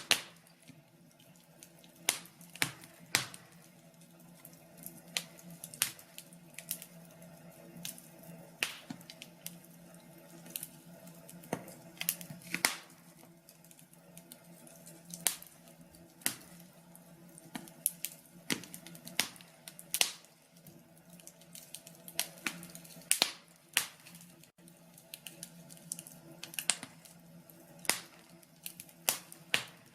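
Wood fire in a fireplace crackling: irregular sharp pops and snaps over a faint steady low hum.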